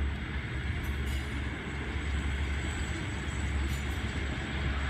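Diesel passenger train approaching across a viaduct, heard as a steady distant rumble of engines and wheels.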